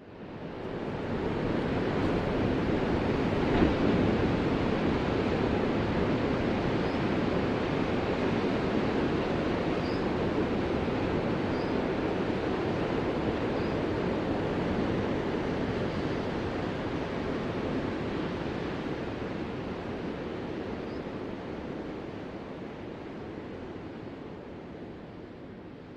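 Ocean surf: a steady wash of breaking waves that swells up out of silence at the start, with a brief sharper crash about four seconds in, then slowly fades toward the end.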